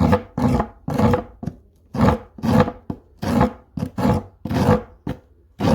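Hand file rasping along the cut edge of a plywood board in even back-and-forth strokes, about two a second, smoothing the jigsaw-cut edge.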